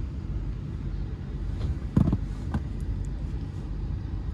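Low, steady rumble of a car, heard from inside the cabin, with one sharp thump about two seconds in and a few lighter clicks around it.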